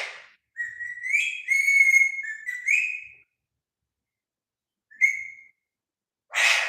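Pet parrot whistling: a run of clear whistled notes lasting about two and a half seconds with small pitch slides, then a short single whistle. A harsh, noisy squawk-like burst comes right at the start and another near the end.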